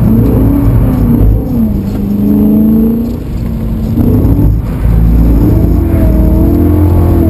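BMW E92 M3's 4.0-litre V8 heard from inside the cabin, revving up and down through a drift on a wet track. The revs sag briefly about three seconds in, then climb again from about five seconds.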